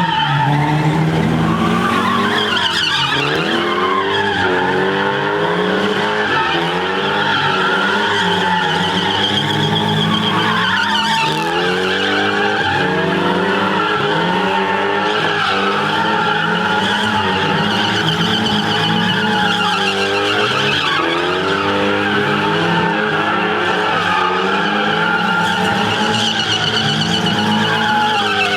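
A car or truck doing a burnout: the engine is revved up and dropped back over and over while the spinning rear tyres squeal continuously.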